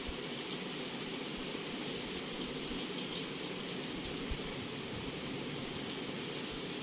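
Heavy rain falling steadily against a window, a constant hiss with scattered sharp ticks of drops striking close by, the loudest about three seconds in.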